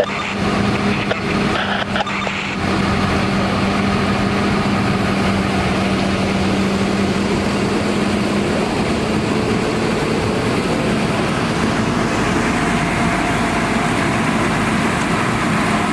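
Fire apparatus engine running steadily with a constant low hum, which fades out about eight or nine seconds in.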